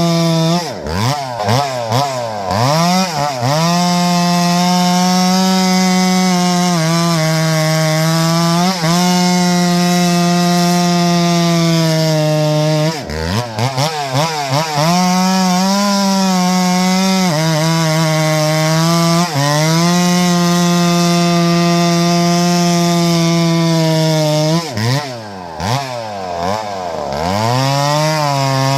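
Two-stroke chainsaw cutting through Douglas fir at full throttle, its engine note held steady in the cut. Three times the revs drop and wind back up as the throttle is eased off and reopened. The saw is running strongly after a carburetor swap.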